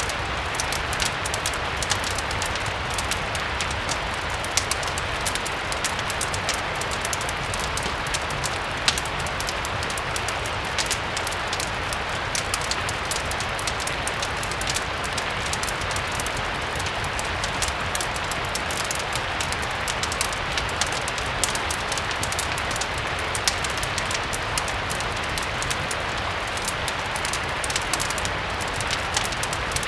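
Steady rain mixed with a crackling wood fire: an even rain hiss with frequent small sharp crackles and ticks, over a low rumble.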